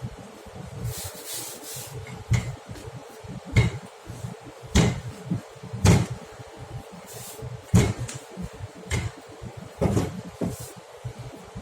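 Irregular knocks and clatter of kitchen work, about half a dozen sharper thumps among smaller taps, over a steady faint hum.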